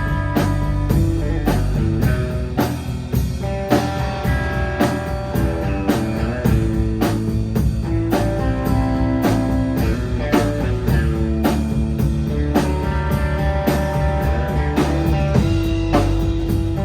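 A rock band playing live, instrumental: electric guitar playing melodic lines over bass and a drum kit keeping a steady beat.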